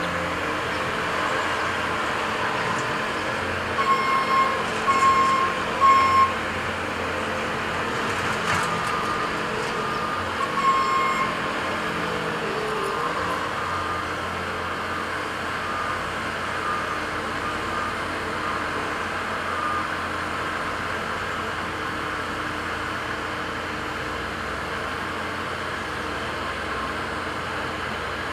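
Diesel construction machinery running steadily, with a reversing alarm beeping: three loud beeps about four seconds in, a few more around ten seconds, then fainter beeps carrying on for a while.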